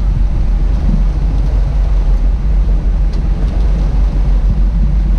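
Boat engine running steadily: a loud, even low rumble with a steady hum.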